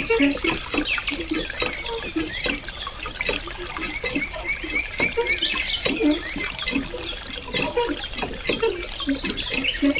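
A thin stream of water pouring from a spout and splashing into a shallow pool, with continuous irregular splashing and bubbling gurgles.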